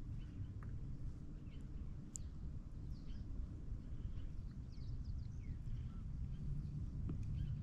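Birds chirping here and there in short, quick calls that slide up and down, over a steady low rumble.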